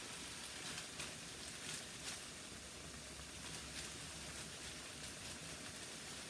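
Mushrooms sizzling in coconut oil in a frying pan, a soft steady hiss with a few faint crackles.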